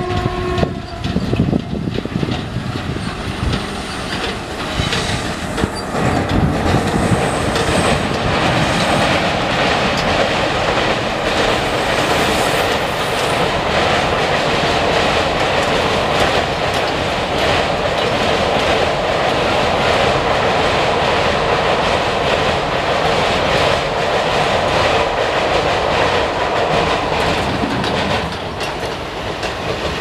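Passenger train hauled by a WAP-4 electric locomotive running across a steel girder bridge, its coaches' wheels making a continuous loud rumble and clickety-clack over the rail joints, easing a little near the end.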